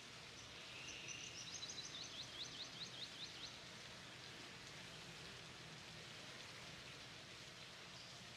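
Faint outdoor background hiss, with a bird giving a quick run of high chirps, about six a second, starting about a second in and stopping before the middle.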